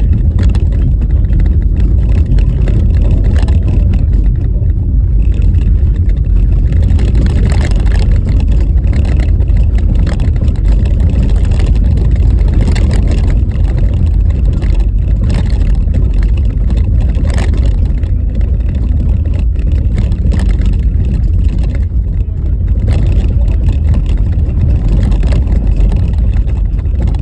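Car driving over a rough, bumpy snow-covered road: a loud, steady low rumble of tyres and road, broken by frequent knocks and jolts from the uneven surface.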